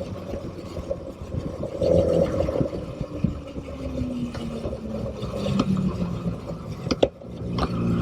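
Motorcycle engine running with an uneven, changing note, a pitch sliding through the middle, and two sharp clicks near the end with a brief dip in loudness.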